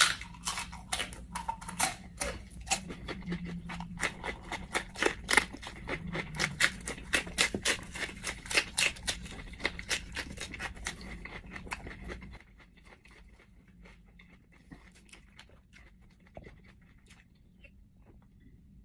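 A person chewing food close to the microphone, with rapid crunching and wet mouth clicks. After about twelve seconds it stops, leaving only a few faint clicks.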